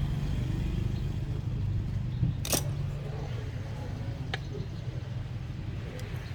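Steady low rumble with a sharp click about two and a half seconds in and a lighter click a couple of seconds later.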